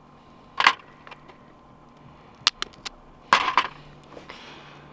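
Cooked crab shell cracking and snapping as it is broken open by hand: one crack about half a second in, a few quick snaps around two and a half seconds, and a longer crunching crackle a little later.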